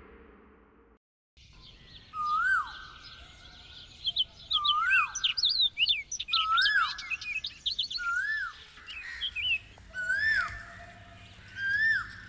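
Birds chirping and singing, with one bird repeating a clear whistled call that rises then falls, about every two seconds, over many quicker high chirps.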